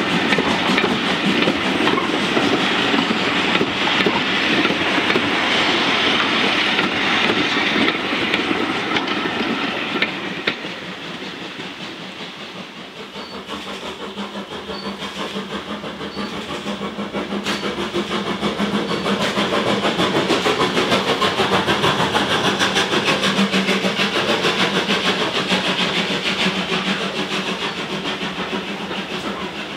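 Passenger coaches of a steam-hauled train rolling past close by, their wheels clicking steadily over the rail joints. About ten seconds in the sound drops away, then the passing train builds up again, heard from inside a signal box, and slowly fades near the end.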